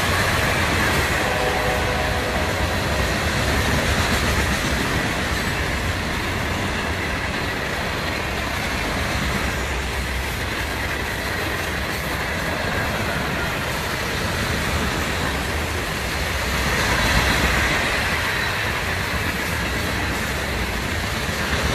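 Loaded aggregate hopper cars of a long freight train rolling past close by: steady noise of steel wheels on the rails, with some clickety-clack, swelling a little about two-thirds of the way through.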